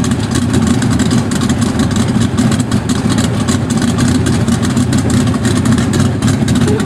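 A car engine running steadily, with a low, even sound and no clear change in speed.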